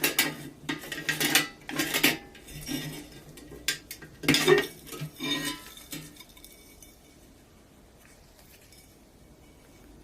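Light metal clinks and clatters, a quick run of them over the first several seconds, as steel parts of a rusty Tonka toy truck are handled and set down, then it goes quieter.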